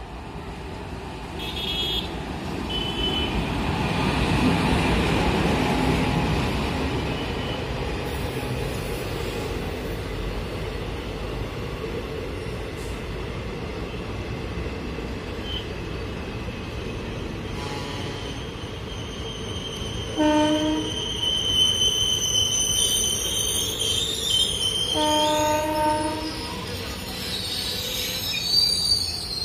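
A WAG-7 electric locomotive and its passenger coaches roll past, with a steady rumble of wheels on track that is loudest about five seconds in as the locomotive goes by. In the second half a high-pitched brake squeal comes in as the train slows to stop. The locomotive's horn sounds twice, a short blast about two-thirds through and a longer one a few seconds later.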